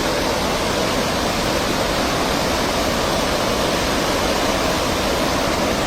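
Floodwater of a swollen river rushing past in a steady, unbroken noise.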